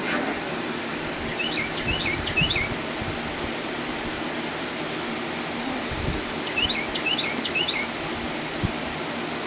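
A songbird singing twice, each time a quick run of short, high chirping notes lasting about a second, over steady outdoor background noise.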